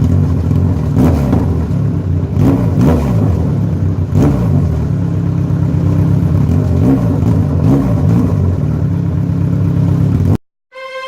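Kawasaki Z1000's inline-four engine running through an aftermarket stainless-steel racing exhaust, idling with several quick throttle blips in the first half. The engine sound cuts off suddenly near the end.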